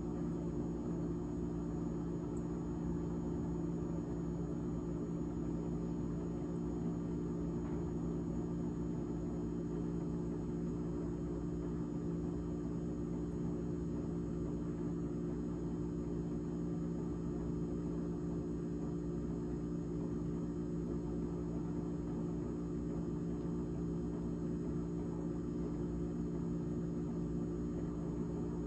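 GE GTH18XCTZRBB refrigerator's fan running with a steady droning hum of several held tones.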